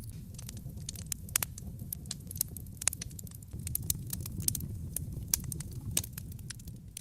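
Wood fire burning in a fireplace: irregular sharp crackles and pops, a few of them loud snaps, over a low steady rumble of the flames.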